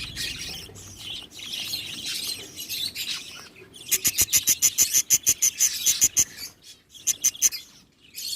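Budgerigars chattering and warbling, then from about four seconds in a fast run of sharp, high chirps, several a second, that breaks off twice.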